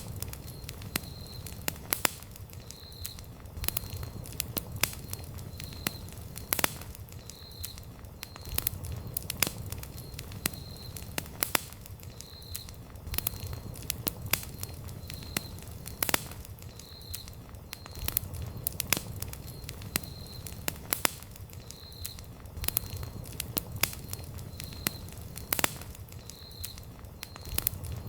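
Wood campfire crackling, with sharp pops of burning wood at irregular intervals over a low, steady rumble of the flames.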